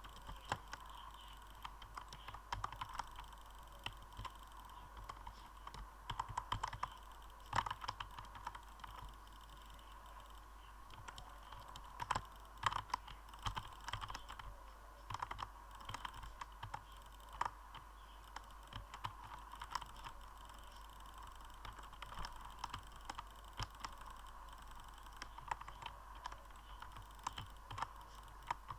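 Clicking in quick irregular runs with short pauses between them.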